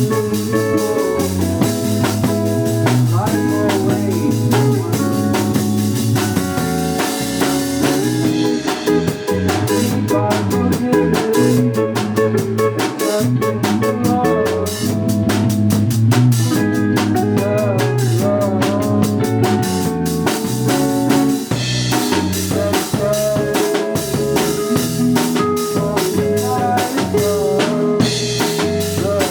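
Live rock band playing: drum kit with rimshots, electric guitar and bass in a steady beat, with no singing.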